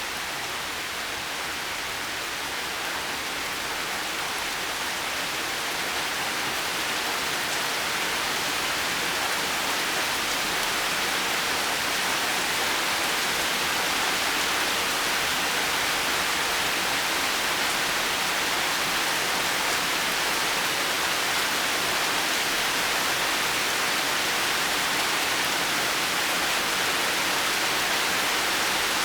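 Steady rain falling, an even hiss of many drops with no single drops or thunder standing out, growing slightly louder over the first several seconds and then holding steady.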